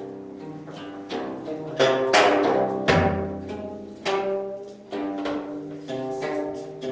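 Music on a Korean plucked zither: a run of sharply plucked notes, each ringing and fading, with a louder strike about two seconds in and a deep low boom a second later.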